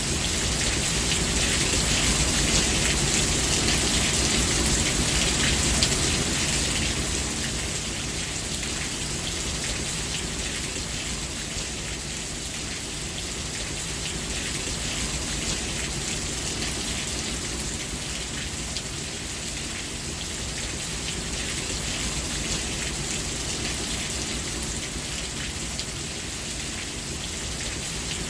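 Steady rain falling, a dense even hiss over a low rumble, slightly louder for the first six seconds and then easing a little.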